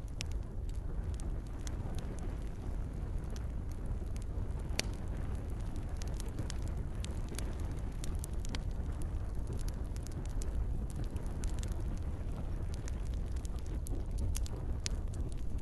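Campfire crackling: many irregular sharp pops and snaps over a steady low rumble of flames, with a soft rain hiss underneath.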